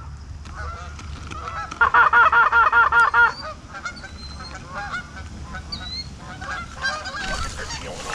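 A goose call blown loud and fast in a rapid run of clucks, starting about two seconds in and lasting about a second and a half. After it come fainter, irregular honks from live geese as they come in to land.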